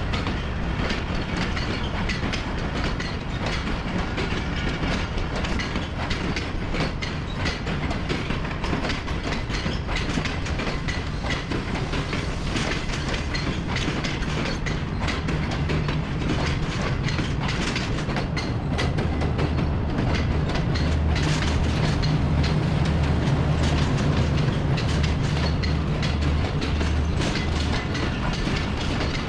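A train running on the track, its wheels clattering over the rails with many short clicks. A low rumble under the clatter grows louder about two-thirds of the way through.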